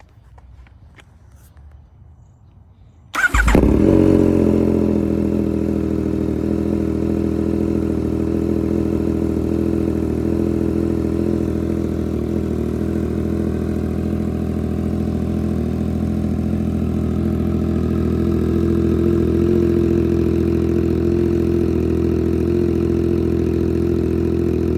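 2024 Yamaha MT-09's 890 cc inline-three engine, breathing through a Racefit aftermarket exhaust, starting from cold about three seconds in with a brief surge as it catches, then settling into a steady idle.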